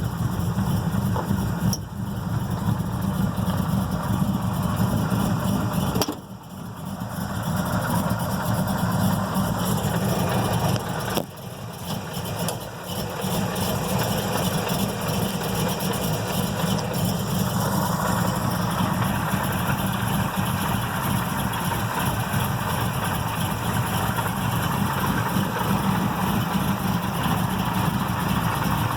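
The 406 cubic inch V8 of a 1968 Firebird idling with a rough, lumpy idle from its big Comp 292 Magnum camshaft. The level drops briefly twice, about six and eleven seconds in.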